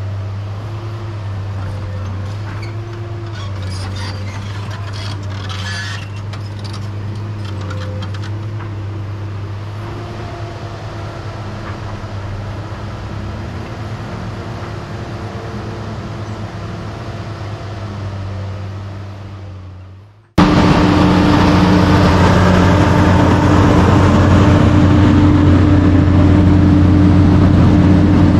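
Heavy diesel machinery engines running steadily, with scattered clicks and clanks a few seconds in. About two-thirds of the way through the sound fades and cuts suddenly to a louder, closer diesel engine running at a steady pitch.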